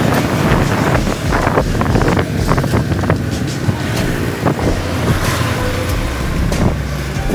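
Riding noise on a moving scooter: wind buffeting the microphone over a steady low rumble of engine and road.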